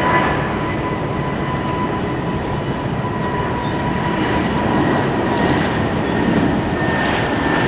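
Jet airliner engines running at high power, a steady loud rush with a thin whine on top.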